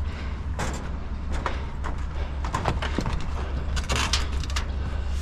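Clanks, knocks and rattles of a metal elliptical machine being carried and handled, in a series of sharp hits with a cluster about four seconds in, over a steady low rumble.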